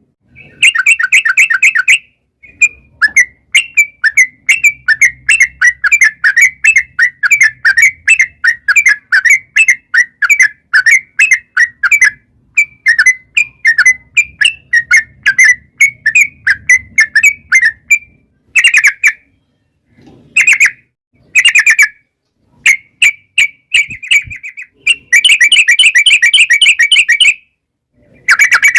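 Yellow-vented bulbul chattering in long rapid series of sharp, repeated notes, about three to four a second. The series is broken by short pauses, with denser runs of notes just after the start and again near the end.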